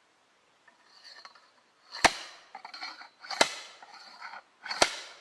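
A hand-driven log splitter raised and driven down onto a log: three sharp impacts of metal striking wood, about a second and a half apart, with scraping and rattling between strikes as the tool is lifted.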